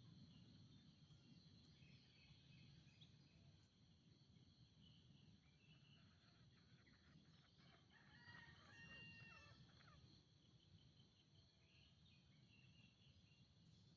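A faint green junglefowl crow about halfway through, a short pitched call over a steady high-pitched insect chorus.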